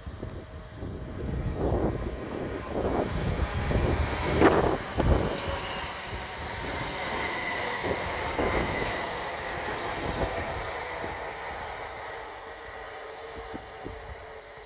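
Electric multiple-unit train running through the station, rumbling with several thumps over the first five seconds and a thin whine partway through, then fading away.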